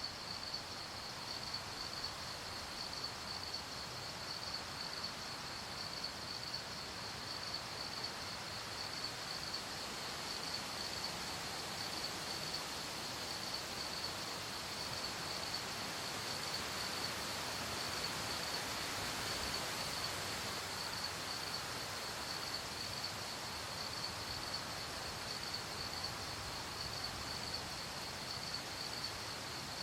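Crickets chirping in a steady, rapid pulsing trill over a soft, even hiss of night ambience that swells slightly midway.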